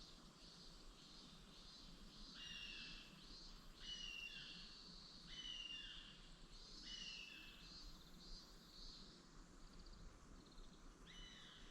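Birds calling faintly outdoors: one bird repeats a short call with a sharply falling note roughly every second and a half, over a steady background of quicker, higher chirping.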